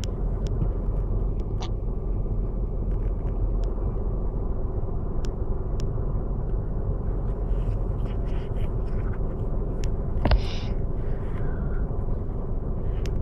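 A vehicle engine idling: a steady low rumble with a constant hum. A few faint clicks and one sharp knock come about ten seconds in.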